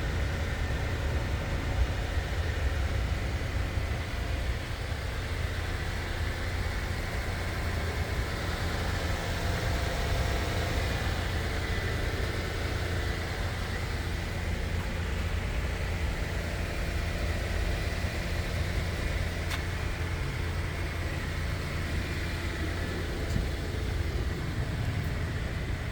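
2022 Toyota Tundra TRD's 3.5-litre twin-turbo V6 idling with a steady low rumble.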